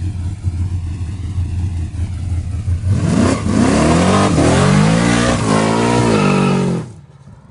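A 1971 Pontiac GTO's V8 rumbles at low revs, then accelerates hard about three seconds in. The revs climb and drop back a few times as it pulls away, and the sound cuts off abruptly near the end.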